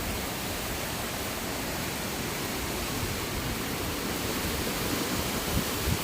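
Strong storm wind blowing over the microphone as a steady rushing noise, with a few low buffeting thumps near the end.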